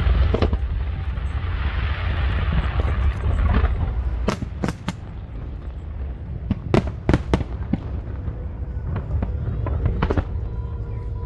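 Fireworks bursting overhead: a run of sharp bangs, densest in a quick cluster around the middle, over a steady low rumble. A crowd's noise fades out in the first few seconds.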